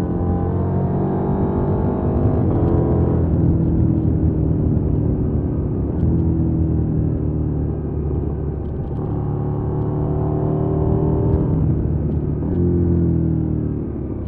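2020 KTM 790 Duke's parallel-twin engine under way, heard from on the bike with wind noise. The engine note climbs twice as the rider accelerates, each time dropping back off, and falls away near the end as the bike slows for a bend.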